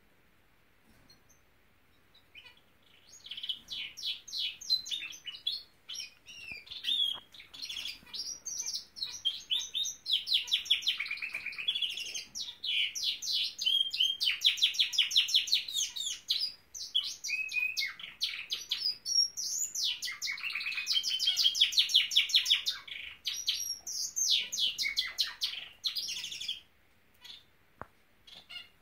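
Norwich canary singing a long song of fast trills and rolling warbles. It starts about two seconds in and stops a couple of seconds before the end.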